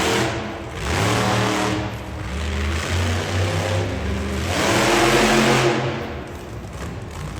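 Monster truck's supercharged V8 engine revving hard in repeated surges, pitch rising and falling, with the biggest rev about two-thirds of the way through.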